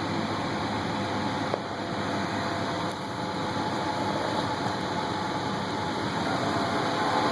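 1999 Nissan Pathfinder's 3.3-litre VG33E V6 idling smoothly and steadily. The misfire and hesitation are cured by a new distributor and camshaft position sensor.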